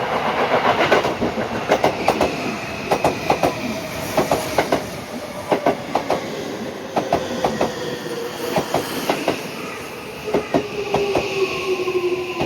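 Electric commuter train rolling into the platform, its wheels clattering in quick groups of clacks over the rail joints about every second, under a whine that slowly falls in pitch as the train slows.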